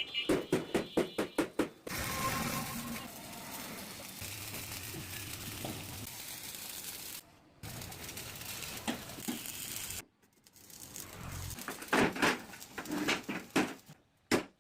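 Metalworking in a steel boat workshop: a quick run of sharp metallic taps, then a steady hiss with a low hum, and another burst of taps near the end.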